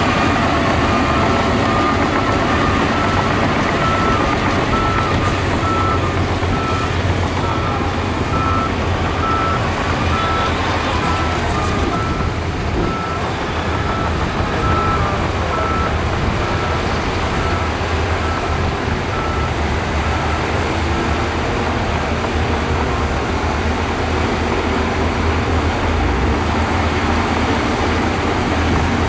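Heavy diesel earthmoving machinery running steadily under load, with a reversing alarm beeping at an even rate that stops about three-quarters of the way through.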